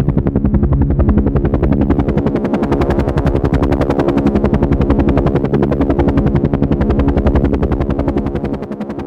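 Helicopter running overhead: a rapid, even chop of rotor blades over a steady engine hum, easing briefly near the end.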